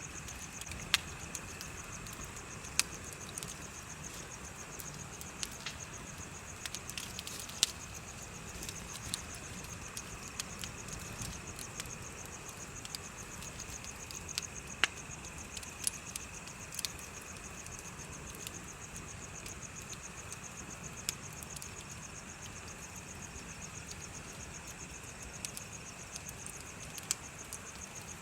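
Bonfire crackling, with sharp pops every second or so over a low steady hiss. Behind it, insects chirp steadily: a high pulsing trill and a second, lower continuous note.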